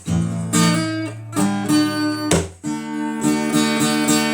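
Acoustic guitar strumming chords, an instrumental gap between sung lines. A hard stroke comes about two and a half seconds in, and after it the strumming settles into an even rhythm.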